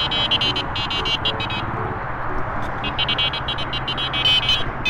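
Rapid, high-pitched electronic beeping, pulsing on and off in quick bursts, over a steady low hum.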